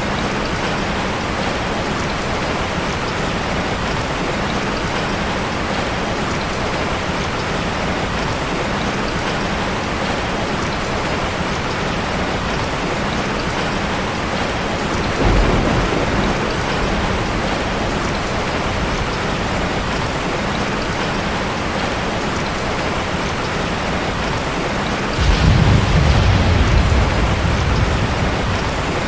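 Steady heavy rain, with two low rumbles of thunder: a short one about halfway and a longer, louder one near the end.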